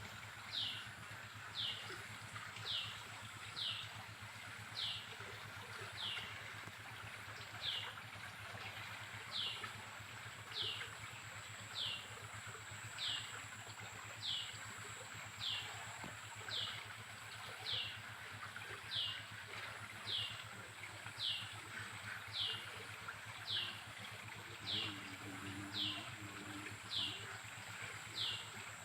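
A bird calling one short falling note over and over, evenly, about three notes every two seconds, over the steady rush of a river running high in flood.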